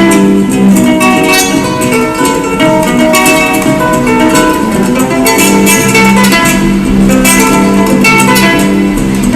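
Guitar music, plucked and strummed notes in a steady rhythm.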